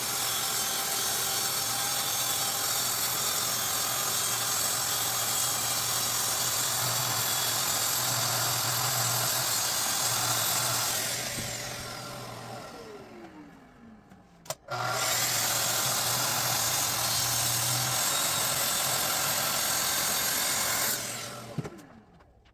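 Electric woodworking power tool cutting maple, running steadily. About eleven seconds in it coasts down with a falling whine. After a sharp click it starts up again and runs, then winds down near the end.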